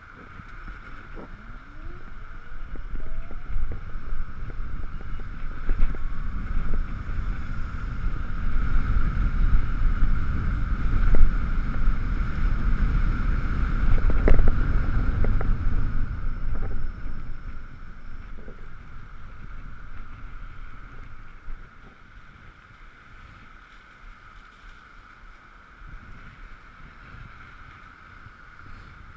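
Riding an Ekoway ML5000 electric scooter on wet roads in the rain. Wind rush and wet road noise build over the first few seconds and die down after about 17 s, over a steady high whine.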